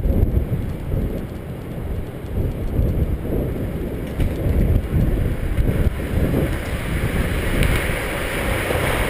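Wind buffeting the microphone of a camera on a moving bicycle, an uneven low rumble, with a higher hiss growing in near the end.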